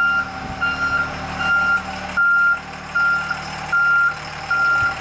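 Truck's reversing alarm beeping steadily, about seven short single-pitched beeps evenly spaced, over a steady low hum.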